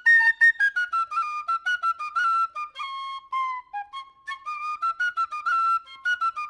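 A solo flute-like melody: a quick run of clean, separate notes that step up and down in pitch.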